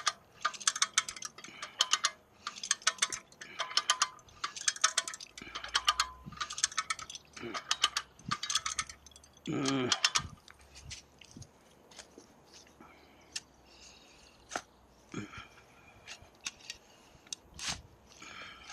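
A hand ratcheting tool being worked in repeated strokes, each stroke a quick run of metallic clicks about once a second, moving a heavy log. About ten seconds in there is one louder, lower sound, after which only a few scattered light clicks remain.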